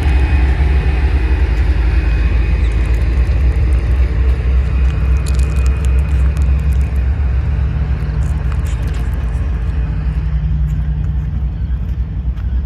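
TEP33A diesel locomotive running under power as it pulls a train away from a station: a loud, steady low engine rumble, with a few sharp clicks in the middle.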